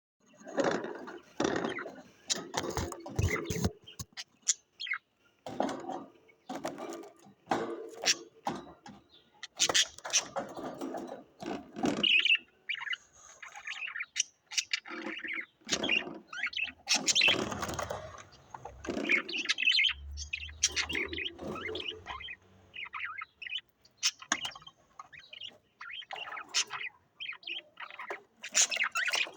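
Pet cage birds chirping and chattering in short, irregular bursts.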